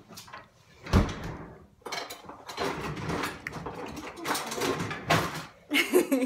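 Kitchen handling sounds: a sharp knock about a second in, like something set down hard on a counter, followed by several seconds of rustling and scraping as vegetables and utensils are handled.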